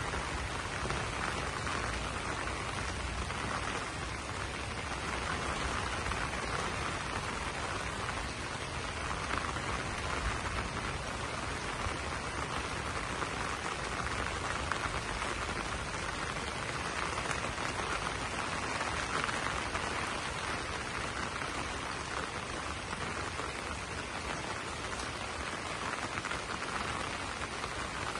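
Steady rain falling on banana leaves: a dense, even spread of drops that keeps going without a break.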